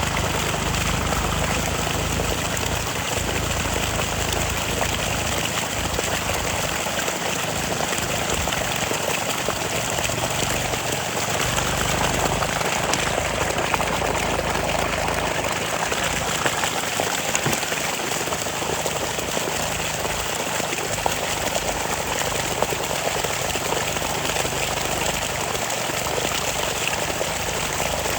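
Eicher 485 tractor's diesel engine running steadily under load while puddling, under a constant wash of churning, splashing water and mud.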